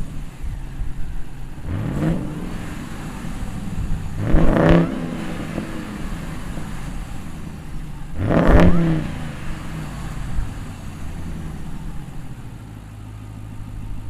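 2021 Ram 1500 TRX's supercharged 6.2-litre V8 idling and revved three times, the second and third revs the loudest, then settling back to a steady idle.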